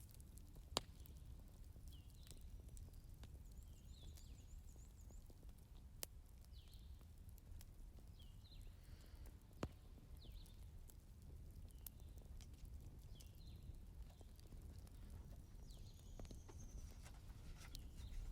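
Wood fire crackling softly, with small ticks and hisses and three sharper pops spread through it.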